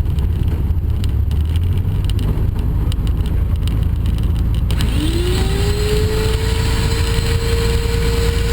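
Cessna L-19 Bird Dog's piston engine running with a steady heavy rumble. About five seconds in, a whine rises in pitch and then holds on one steady note.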